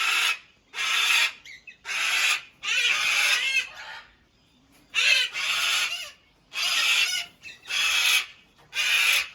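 Large parrot screeching loudly: about ten harsh, grating calls of about half a second each in quick succession, with a short pause midway.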